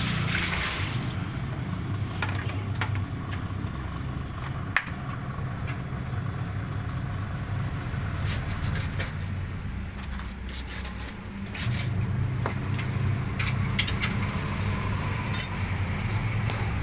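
Scattered scrapes and sharp clicks of a civet's cage being cleaned, over a steady low hum.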